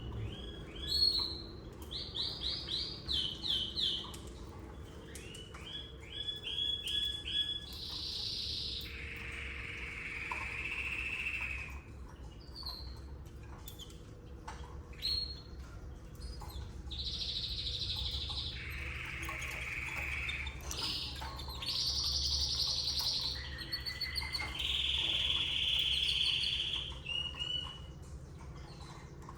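Domestic canary singing: a long song of fast trills of repeated notes, then several longer rolling, buzzy phrases, over a faint steady low hum.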